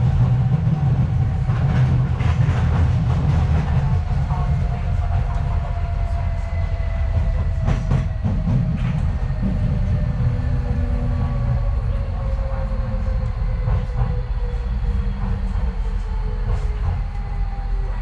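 Docklands Light Railway train running, heard from inside the carriage: a steady low rumble of wheels on track with a whine that falls slowly in pitch, and a few sharp knocks from the rails, the clearest about eight seconds in.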